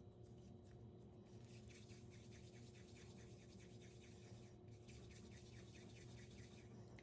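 Faint rhythmic scraping, about four to five strokes a second, starting about a second and a half in, pausing briefly, then running on until shortly before the end.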